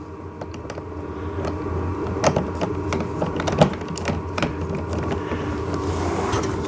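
Screwdriver driving a bolt through the plastic steering shaft of a toy ride-on excavator into a nut held by hand, with scattered small clicks and scrapes over a steady low hum.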